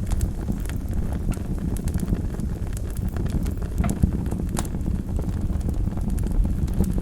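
Wood fire burning in a fireplace: a steady low rumble of flames with irregular sharp crackles and pops, a few louder snaps about four seconds in.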